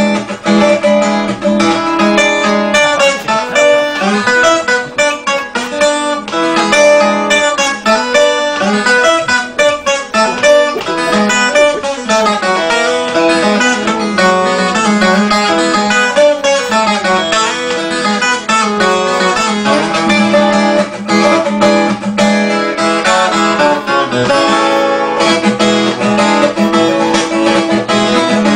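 Background music played on acoustic guitar, plucked and strummed in quick runs of notes over a steady low note.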